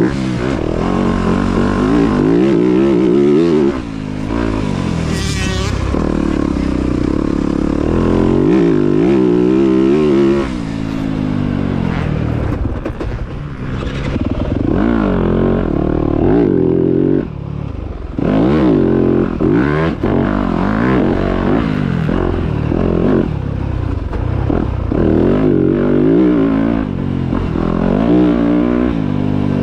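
Dirt bike engines revving on a motocross track, climbing and falling in pitch again and again as the bikes accelerate, shift and back off.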